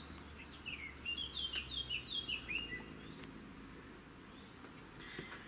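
A songbird singing: a quick run of about a dozen short chirps, each sliding downward, starting about a second in and lasting nearly two seconds, the last notes dropping lower.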